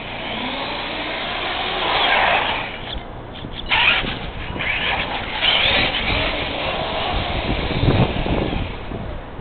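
RC truck driving, its motor whining as it speeds up and slows down several times, with a sharp knock about four seconds in.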